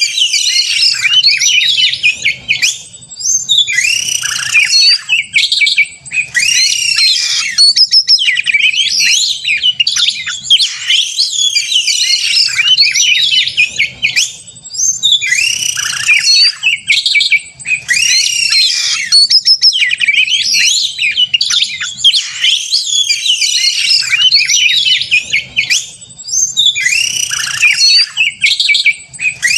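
Oriental magpie-robin (kacer) singing loudly and almost without a break in its fast, aggressive 'narung' fighting song: a dense mix of sweeping whistles and harsh chattering notes, with a few short pauses.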